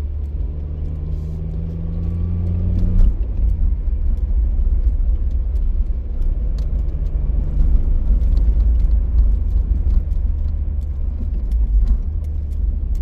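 Car driving along a road: a steady low road rumble with the engine humming, the engine note standing out for a couple of seconds near the start and again about halfway, and scattered light ticks and clicks.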